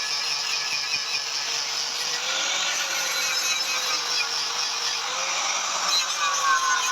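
Steady rasping of a tool working sheet metal, continuous with no hammer blows, with a faint wavering whine underneath.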